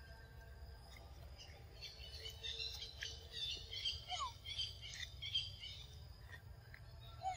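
Birds chirping and twittering, a busy run of short high notes from about two seconds in until about six seconds, with a couple of short rising whistles, over a steady low outdoor rumble.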